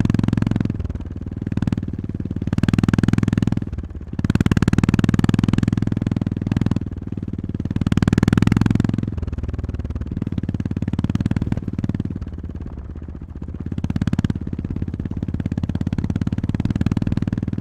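Honda GB350S single-cylinder engine running at low revs under way, the throttle opened and eased off again and again so the exhaust note swells and drops.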